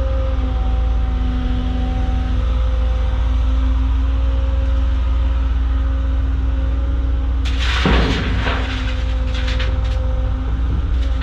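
Caterpillar excavator's diesel engine running steadily under hydraulic load, with a steady whine over its drone. About three quarters of the way in, a bucketful of rocks and dirt crashes into the steel dump truck bed for about a second, followed by scattered clatters of stones settling.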